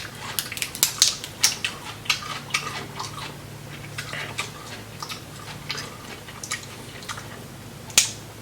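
Close-up eating of boiled seafood in sauce by hand: wet chewing and smacking with many short, sharp clicks of shell and fingers, one louder click about eight seconds in.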